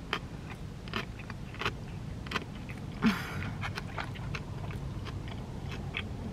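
A person chewing a mouthful of cheeseburger with the mouth closed: short wet mouth clicks come at an uneven pace, about one or two a second, with a louder brief smack about three seconds in.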